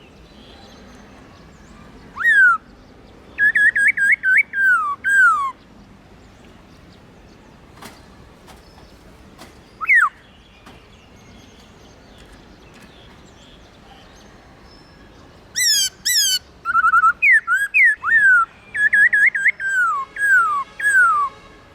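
Black-throated laughingthrush singing: loud, clear whistled phrases of quick looping notes and downward-slurred whistles. It comes in bursts, with a pause of several seconds in the middle and a longer, denser run of song near the end.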